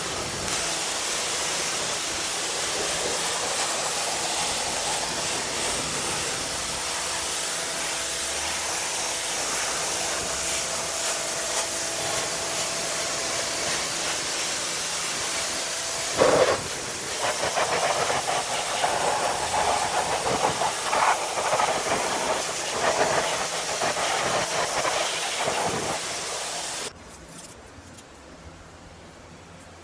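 Pressure washer spray hissing steadily on a car wheel and tire. About sixteen seconds in it turns louder and uneven, then stops suddenly near the end.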